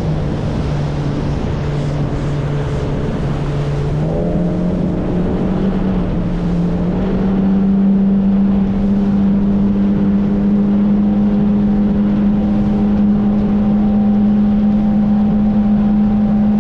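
A boat's engine running under way, its pitch stepping up twice as the throttle opens, then holding steady, over a continuous rushing noise.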